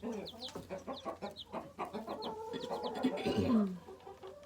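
Baby chicks peeping in many short, high, falling chirps, mixed with lower clucking from chickens in the coop and one louder falling call a little after three seconds in.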